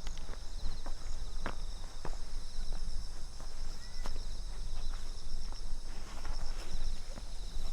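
Footsteps crunching along a path at a walking pace, over insects, likely crickets, chirping in a steady pulsing trill and a constant low rumble.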